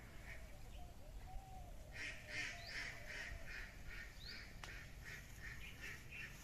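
Birds calling: a rapid, even series of short calls, about three a second, growing louder about two seconds in, with a couple of brief rising chirps.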